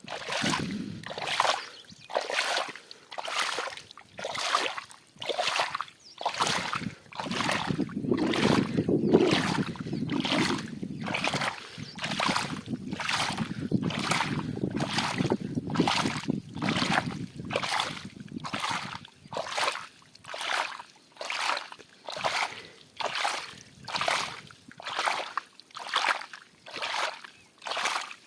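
Standing water being bailed out of a waterlogged crop field by hand, a rhythmic scoop-and-splash about once every three-quarters of a second, steady throughout. This is drainage of a field where the sown seed is sitting under water.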